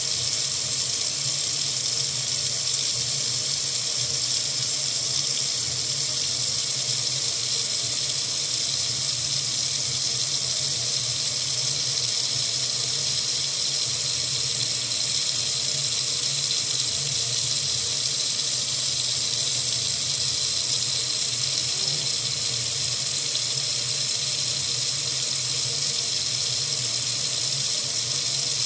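Water faucet running steadily, a continuous even rush of water that does not change.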